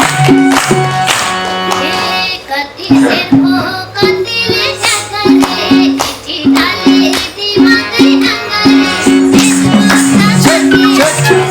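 Live band playing a Nepali folk dohori song: a steady hand-drum beat under repeating bass notes, with a melody line that bends and slides in pitch, stronger about three seconds in and again near the end.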